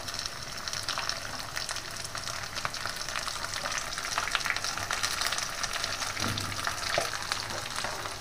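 Quartered onions and green capsicum frying in hot oil in a wok: a steady sizzle with many small crackles, as a metal spatula stirs the vegetables.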